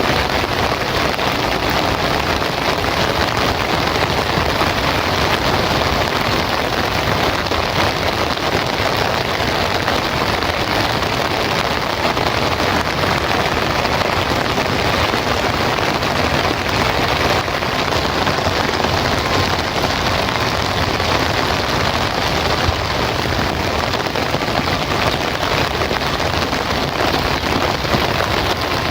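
Heavy rain falling steadily, an even, unbroken wash of sound.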